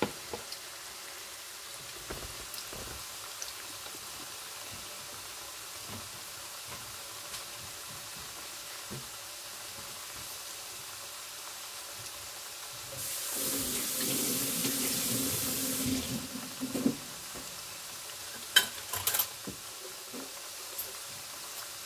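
Green banana pieces shallow-frying in hot oil in a non-stick frying pan: a steady sizzle with small crackles. A louder rushing noise joins for about three seconds past the middle, and a few sharp clicks come near the end.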